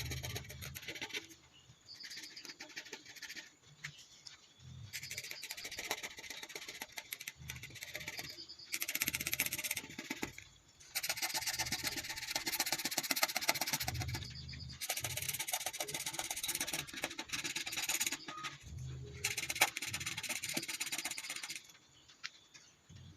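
A drawing or colouring tool scratching across paper in runs of quick back-and-forth strokes, each run lasting one to three seconds, with short pauses between.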